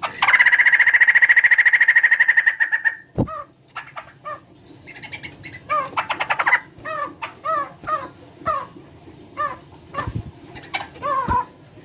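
A caged poksay (laughingthrush), a large bird whose call is likened to a chicken's, gives a loud, fast rattling trill for about three seconds. It then follows with a string of short, downward-slurred call notes, about two a second, with a few dull thumps among them.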